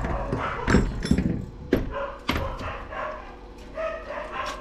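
Pet dogs barking and whining, mixed with several sharp knocks and clatter of parts being handled in the first couple of seconds.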